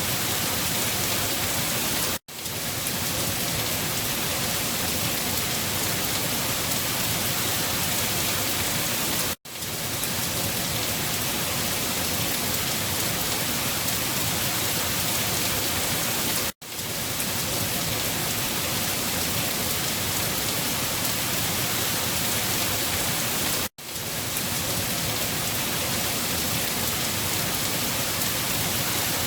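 Steady rain falling, an even hiss that cuts out for an instant four times, about seven seconds apart.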